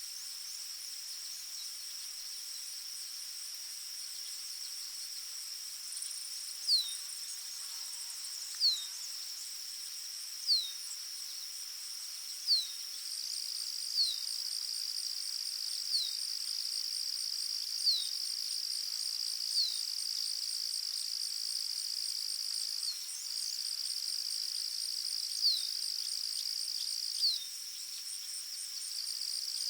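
Forest ambience: a steady, high-pitched chorus of trilling insects, with a bird repeating a short, downward-sliding whistle about every two seconds from several seconds in, pausing briefly near the two-thirds mark.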